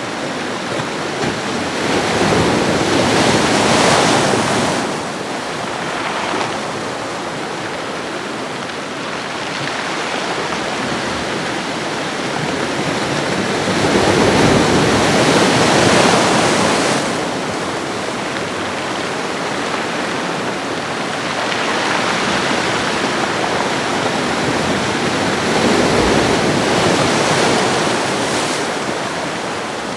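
Ocean waves washing on a shore: a steady hiss of surf that swells into three louder breaking waves, about a quarter in, halfway through and near the end.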